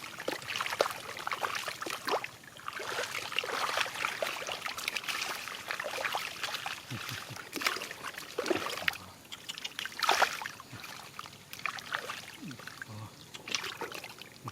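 Shallow rice-field water splashing and sloshing in irregular bursts as it is worked through by hand. It is loudest about ten seconds in.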